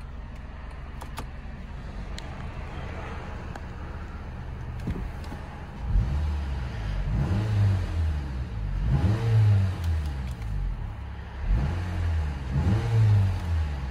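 2011 Acura TSX SportWagon's 2.4-litre four-cylinder engine idling steadily, then revved repeatedly while standing from about six seconds in, the pitch rising and falling with each blip of the throttle.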